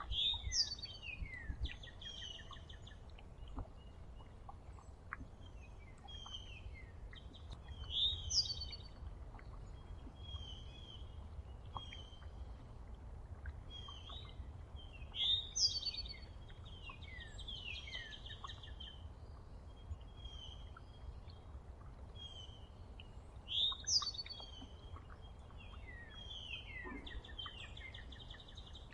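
Songbirds singing and chirping. One loud song of quick falling notes and a buzzy trill comes back four times, about every seven or eight seconds, with softer chirps in between over a low outdoor rumble.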